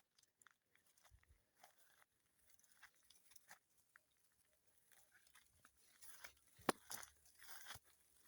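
Faint crunching and snapping in dry scrub, as of footsteps through dry leaves and twigs, thickening near the end with one sharper snap about two thirds of the way in.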